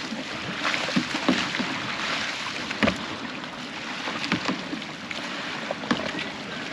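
Kayak paddles working through pond water, a steady splashing wash broken by irregular short splashes and knocks of the strokes.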